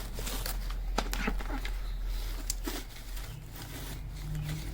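Light knocks, scrapes and rustling as a motorcycle helmet is handled, with scattered short clicks over a steady low hum.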